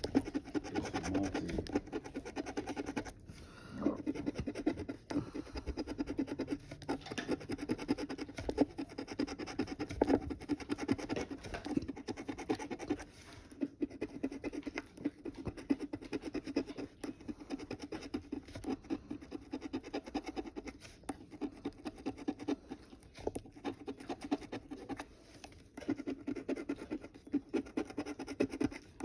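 A scratch-off lottery ticket being scratched. Rapid, steady scratching strokes scrape off the coating, broken by a few short pauses.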